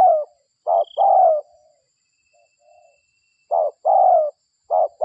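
Spotted dove cooing in repeated two-note phrases: a short low coo followed by a longer, falling one. The phrases come in quick succession, with a pause of about two seconds in the middle.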